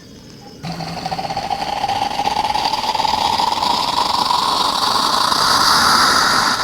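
Liquid being poured into a vessel during coffee making, starting abruptly under a second in; the rushing sound rises steadily in pitch and grows louder as the vessel fills.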